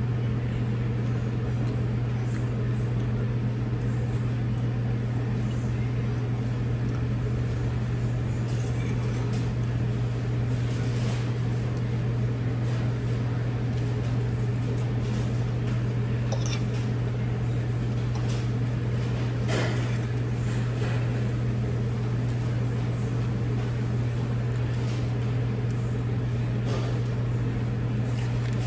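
A steady low machine hum, with faint scattered clicks and taps from eating utensils.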